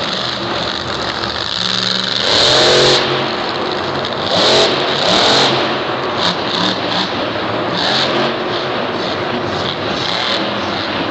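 Monster truck engines revving hard over a continuous loud din, rising and falling in pitch. The loudest surges come about two seconds in and again at four to five seconds.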